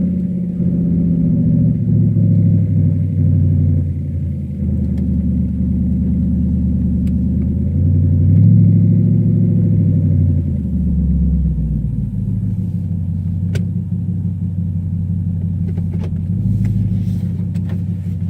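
Cadillac STS-V's supercharged 4.4-litre V8 running at low speed. Its pitch rises briefly about eight seconds in, then falls back to a low rumble, with a few faint clicks near the end.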